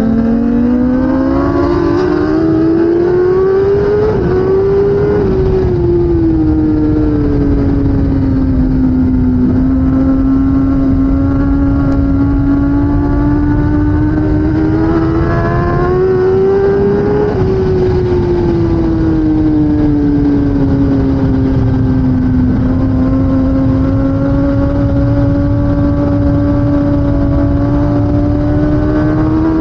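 2016 Kawasaki ZX10R superbike's inline-four engine running hard under racing, its pitch climbing and falling in long sweeps as the bike accelerates and slows, over a steady rushing noise.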